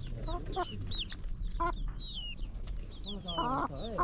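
Birds calling: a string of short calls, some low with a wavering pitch, others quick high chirps, with a louder run of low calls about three seconds in.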